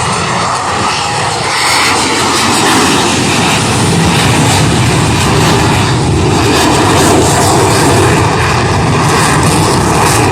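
Loud, continuous jet engine noise from Blue Angels F/A-18 Super Hornets taking off and climbing. The noise swells about two seconds in and stays loud.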